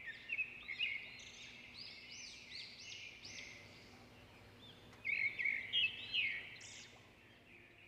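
Birds singing in rapid runs of high, arched chirps, in two bouts: one at the start lasting about three seconds, and a louder one about five seconds in.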